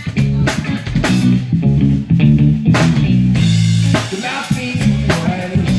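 A live band playing with electric guitar, bass and drum kit keeping a steady beat.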